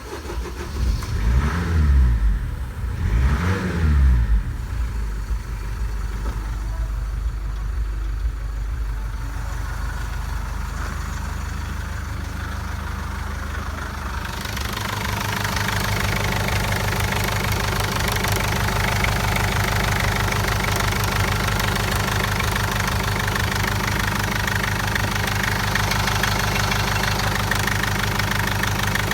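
Mercedes-Benz OM611 2.2 CDI four-cylinder common-rail diesel engine idling with a diesel clatter, revved briefly twice in the first few seconds. About halfway through the clatter comes through louder.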